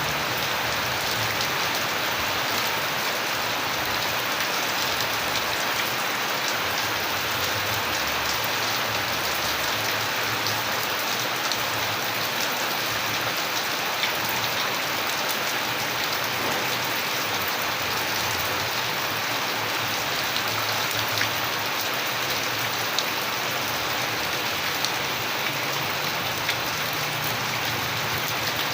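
Steady heavy rain falling on a surface, an even hiss with scattered individual drops ticking through it.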